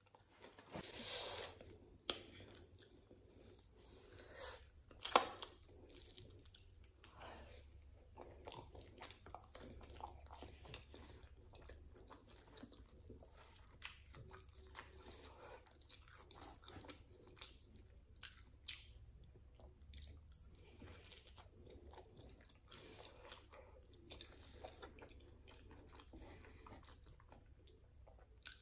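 A person eating pap, boerewors and grilled meat by hand, with wet chewing and lip-smacking mouth clicks throughout. There is one louder smack about a second in, and the sharpest click comes about five seconds in.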